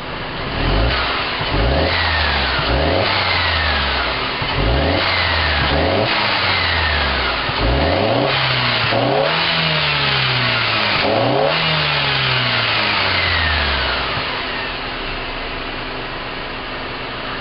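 2012 Mercedes C250's stock turbocharged four-cylinder engine being revved repeatedly while stationary, in a series of quick rises and falls in pitch. It settles back to a steady idle near the end.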